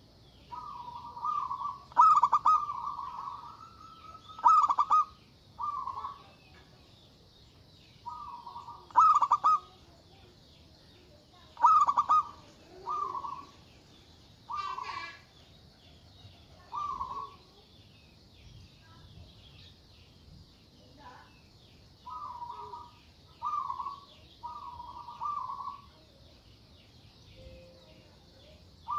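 Zebra dove (perkutut) singing: repeated cooing phrases of short rolling notes, coming in groups with pauses between, the loudest in the first half. A faint high steady hiss lies underneath.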